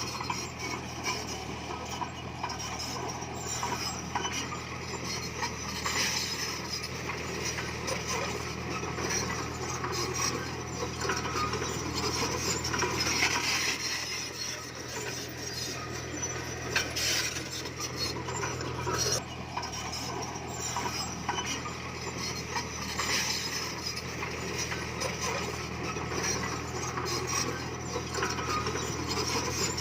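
Komatsu D20P bulldozer working: a steady engine hum under continual metallic clanking and scraping as it pushes stone.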